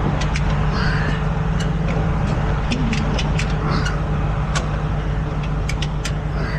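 A heavy truck engine idling steadily with a low hum, while a dozen or so sharp clicks come at irregular intervals.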